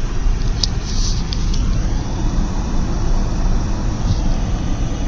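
Steady low road and engine rumble of a car heard from inside the cabin while driving, with a few faint short ticks about a second in.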